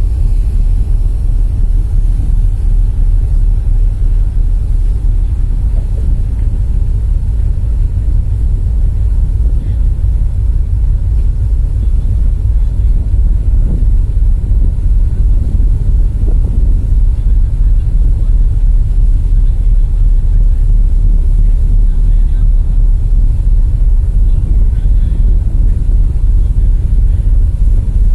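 Steady low rumble on board a ship under way: wind buffeting the microphone over the ship's engine noise.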